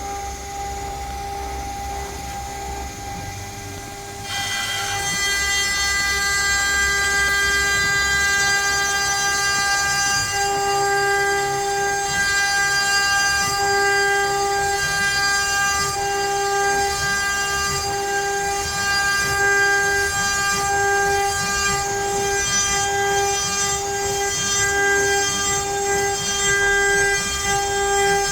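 CNC router milling pine: a steady high spindle whine with the motors' uneven pulsing as the machine moves. About four seconds in it gets clearly louder, with a higher whine added.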